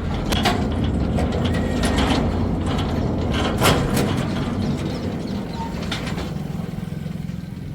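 A steady low mechanical rumble with scattered clicks and rattles over it.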